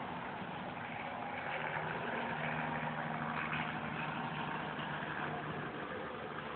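An engine running steadily, getting louder about two seconds in and easing off toward the end.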